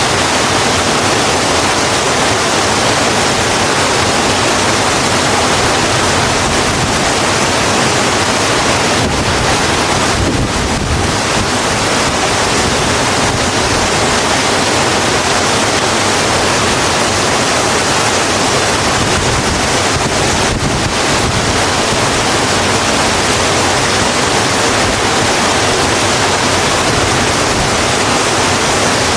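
Steady, dense rain falling on a road, a constant even hiss with no letup.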